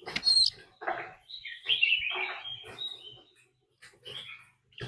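Oriental magpie-robin singing its challenge song: a quick run of varied whistled and scratchy phrases, with a sharp high note just after the start and short pauses between phrases.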